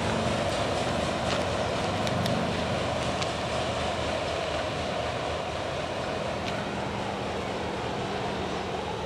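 Freight train's autorack cars rolling away on the rails: a steady rolling noise with a few sharp metallic clicks, fading slowly as the train recedes.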